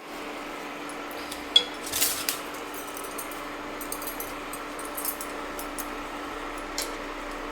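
Metal kitchen utensils and cookware clinking and knocking: a sharp clink about one and a half seconds in, a short clatter just after, and a lighter knock near the end, over a steady low hum.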